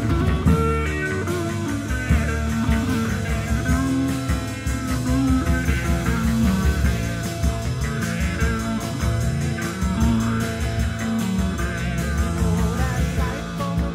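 Psychedelic rock music in an instrumental passage, with a lead guitar line that bends and wavers in pitch over a steady bass and rhythm backing.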